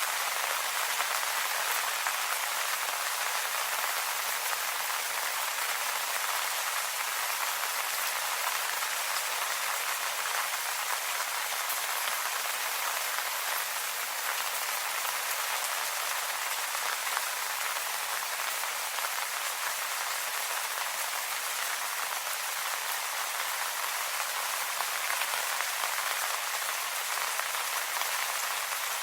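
Steady rain falling on leaves, an even patter of many small drops with no let-up.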